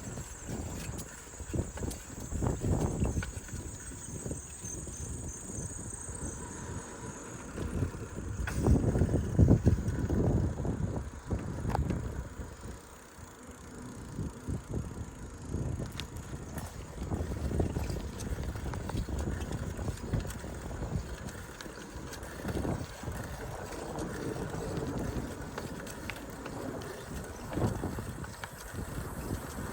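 Riding noise from a bicycle on the road: a low, uneven wind rumble on the microphone, with rolling noise that swells and fades. It is loudest about a third of the way through.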